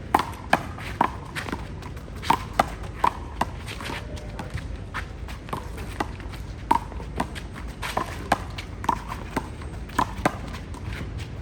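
A handball rally: a rubber handball is slapped by hands and smacks off the wall and court in sharp, ringing hits about two a second. The hits pause briefly about four seconds in, then pick up again.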